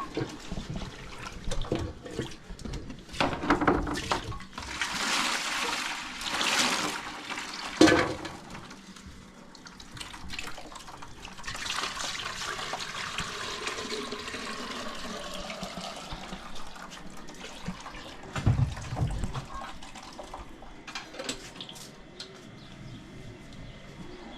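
Water pouring and splashing in two long spells, with a few knocks of handled pots or utensils in between.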